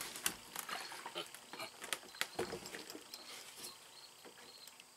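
Scattered light clicks and knocks of parts and tools being handled, growing sparser and fainter toward the end.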